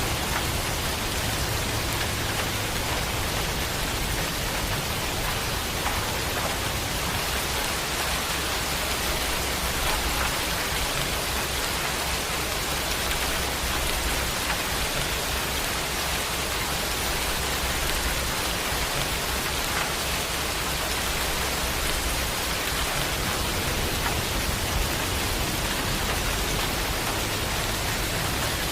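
Steady, dense rain falling and pattering on surfaces, an even hiss with no breaks.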